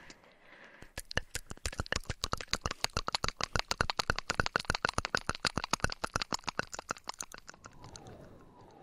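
A fast run of crisp taps or clicks close to a binaural microphone, about ten a second, starting just under a second in and thinning out near the end.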